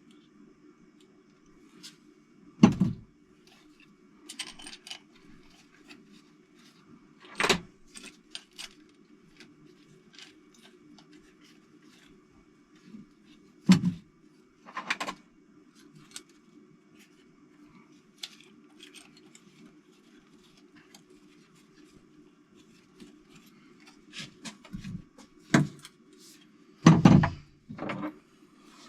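Metal engine parts and hand tools clinking and being set down hard, with several sharp knocks and some jingling of small parts, over a steady low hum.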